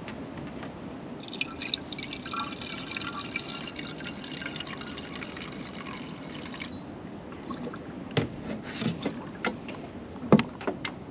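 Coolant being poured into a Prius cooling system: a trickling pour for about five seconds, then a few sharp clicks and knocks.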